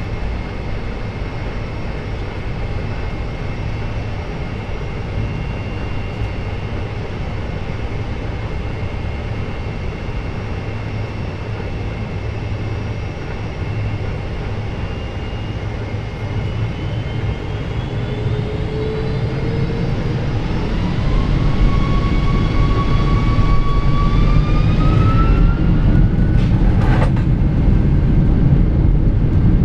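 Boeing 747-400's Rolls-Royce RB211 engines running steadily, then spooling up to takeoff thrust: several whining tones rise from about halfway, and a deep rumble from the start of the takeoff roll builds and grows louder over the last third, heard from inside the cabin.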